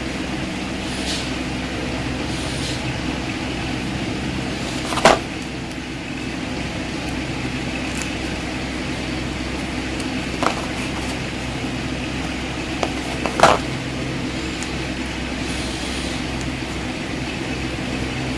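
A steady mechanical hum, like a fan or motor, with a few short sharp clicks or taps, the loudest about five seconds in and again near the end.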